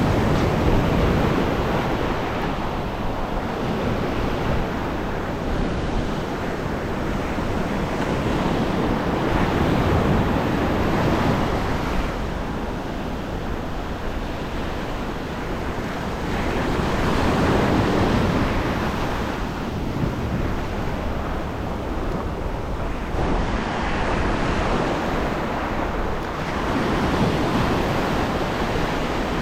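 Waves washing in, with wind on the microphone; the rushing noise swells and eases every several seconds.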